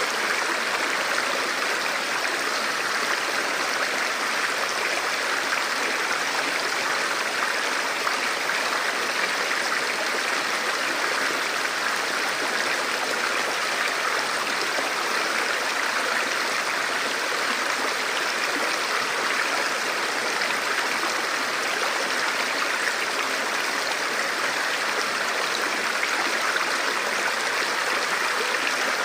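A river or stream flowing over rocks: a steady, even rush of water.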